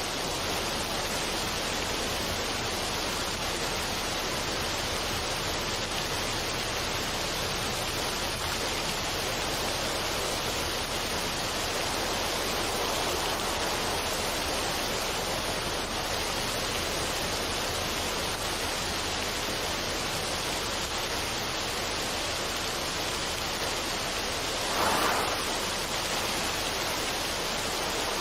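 Steady, even rushing noise of a relaxation ambience track, with one brief louder swell about 25 seconds in.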